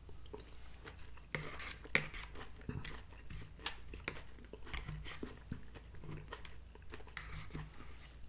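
A person chewing green beans with the mouth close to the microphone, with light clicks of a metal fork picking at a plastic TV-dinner tray.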